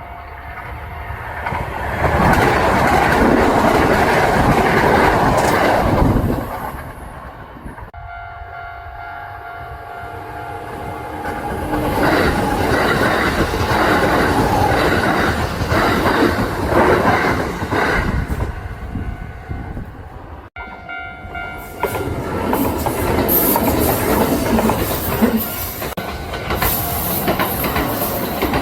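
Kintetsu electric trains passing at speed, their wheels clacking over the rail joints. The noise swells and eases in several loud passes, with a sudden break about two-thirds of the way through.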